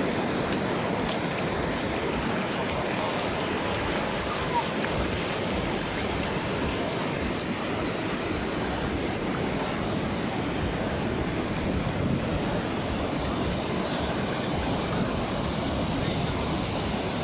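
Sea surf breaking and washing in steadily, with wind buffeting the microphone.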